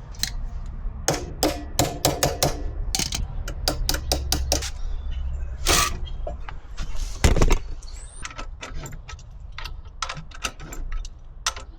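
Irregular metallic clicks and clinks of hand tools and hardware being worked on a scooter's rear axle, some strikes close together and a few with a short ring.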